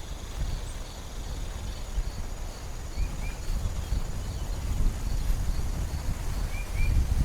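Forest ambience: a low, fluctuating rumbling noise, with an insect chirping faintly about twice a second and two short double chirps from a bird, one near the middle and one near the end.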